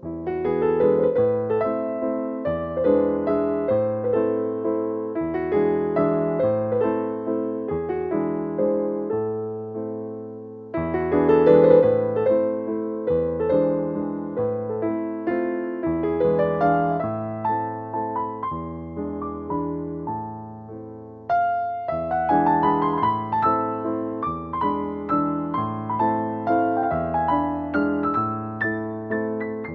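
Slow, gentle piano music: arpeggiated notes over a low bass note that changes about every second, each note struck and fading, with the phrase starting afresh about 11 s and 21 s in.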